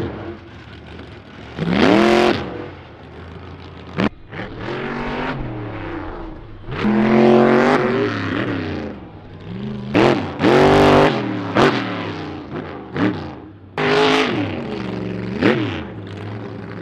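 Monster truck engine revving hard in repeated surges, its pitch climbing and falling again and again, with a sharp bang about four seconds in.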